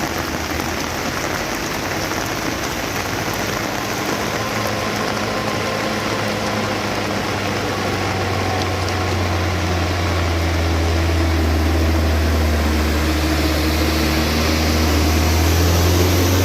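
A heavy vehicle's engine runs steadily with a low hum that grows louder through the second half, over a constant hiss of rain.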